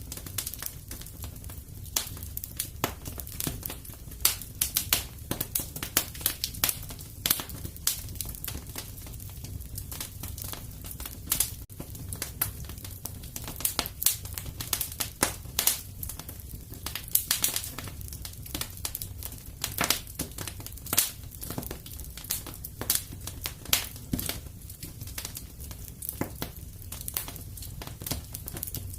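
Wood fire in a fireplace crackling, with irregular sharp pops and snaps of varying loudness over a low steady rumble.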